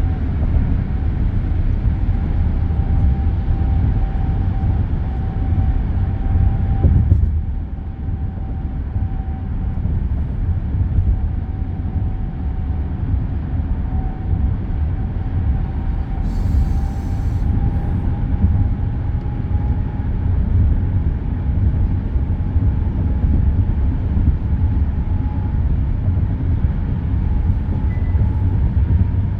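Steady expressway road noise: a constant low rumble of tyres on pavement with a faint wavering whine above it. It swells briefly about seven seconds in, then eases slightly, and a short high hiss passes around the middle.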